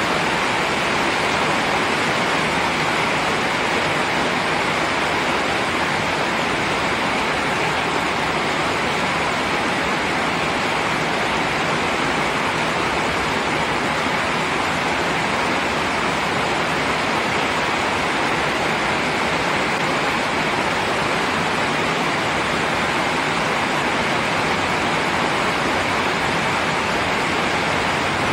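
Steady rain, an even dense hiss with no single drops, thunder or other sounds standing out.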